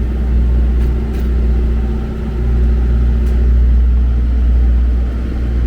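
Steady low engine drone with a constant hum, from the food trucks' running generators.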